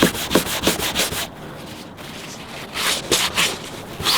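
Fast back-and-forth scrubbing on the painted metal of a BMW E46's trunk, about five strokes a second, rubbing through the paint. The strokes stop about a second in, then resume for a few quick strokes before picking up again near the end.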